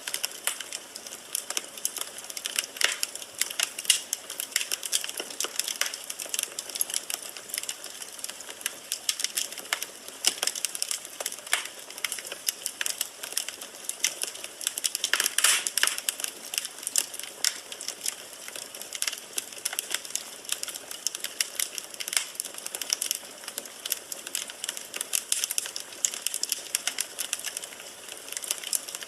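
Firewood burning in a fireplace, crackling with a steady stream of irregular snaps and a louder flurry about halfway through.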